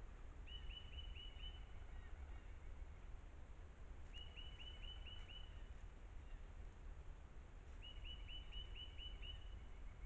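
A songbird singing three times, each phrase a quick run of about six clear downslurred notes that trails off into softer lower notes, repeated every three to four seconds, over a steady low rumble.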